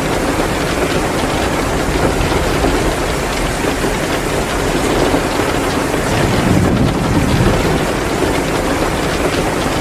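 Steady heavy downpour of rain with a wood fire crackling in a fireplace, a dense hiss with many small ticks.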